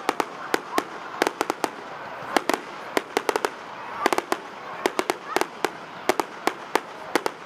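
Fireworks going off: a rapid, irregular string of sharp bangs and crackles, several a second, with a few faint whistles between them.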